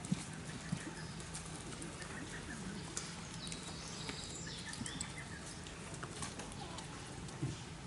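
A songbird sings a short phrase of high chirps ending in a falling note, about five seconds in. Under it runs a steady low hum, with a few soft clicks and knocks near the start and near the end.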